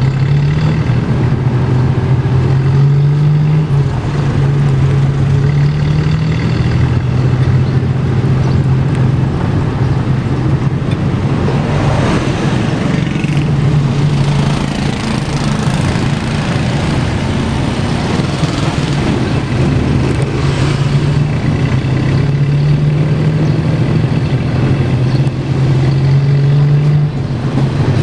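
Tuk-tuk engine running steadily while under way, its hum stepping up and down in pitch several times as the speed changes, over a constant rush of road and traffic noise.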